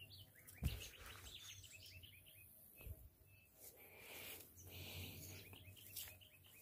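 A bird calls in two fast runs of short, repeated high chirps, the second run about four and a half seconds in. Under it is a faint low hum, and a single low knock, likely handling of the camera, comes about half a second in.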